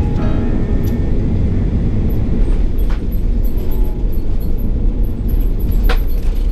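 Steady low rumble of an Airbus A330-900neo heard inside the passenger cabin, from its Rolls-Royce Trent 7000 engines and the airflow. Two light clicks come about three and six seconds in.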